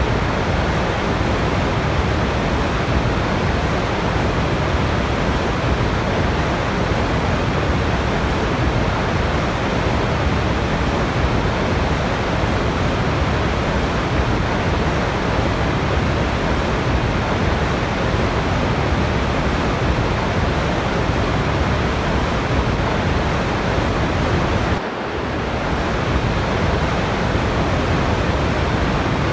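Waterfall: a steady, dense rush of falling water with no rhythm or change, dipping briefly about 25 seconds in.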